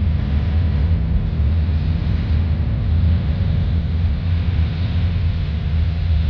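Steady low rumble of a car on the move, heard from inside, with an even hiss of tyres on the road over it.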